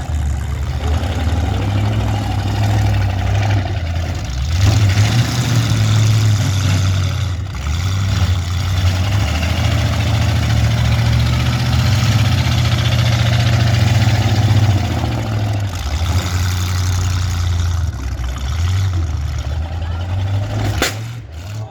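Demolition derby car engines running loud, their low drone swelling and easing as they rev and settle, with a single sharp crack near the end.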